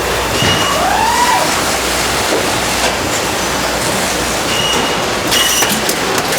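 Food-factory machinery running with a steady, loud noise, with a few short squeals and a sharp clatter about five seconds in.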